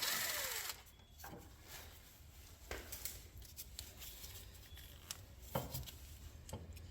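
Faint, scattered clicks and light metal knocks of a hand wrench working loose 13 mm bolts that were set with blue Loctite, over a low steady hum.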